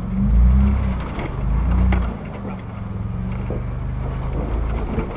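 An off-road 4x4's engine crawling at low speed, revving up twice in the first two seconds and then pulling steadily, with scattered clicks and crunches over it.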